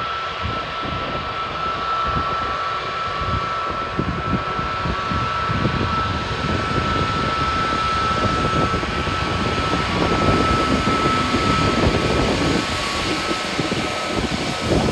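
Airbus A320neo jet engines running at taxi power: a steady high whine over a broad rush, growing slightly louder as it goes, with the whine fading out past the middle.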